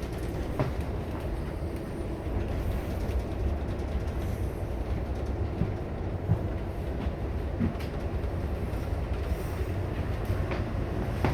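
Amtrak Superliner passenger car in motion, heard from inside: a steady low rumble of the running train, with scattered clicks and knocks.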